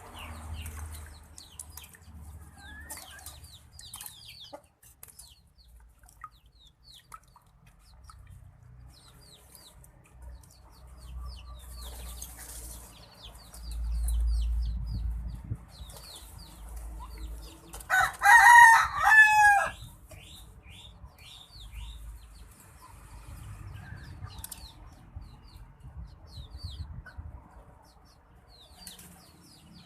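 Birds calling: scattered short, high chirps throughout, and about two-thirds of the way in one loud call of about two seconds, made of a few joined, bending notes.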